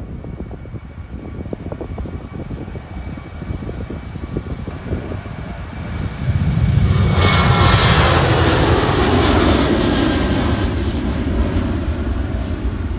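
Jet airliner taking off, its engine noise swelling sharply about six seconds in and staying loud, with a tone sinking in pitch as it passes. Wind rumbles on the microphone beforehand.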